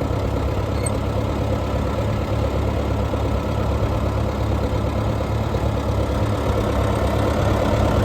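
1955 Oliver Super 55 tractor's four-cylinder gasoline engine running steadily at a low, even speed.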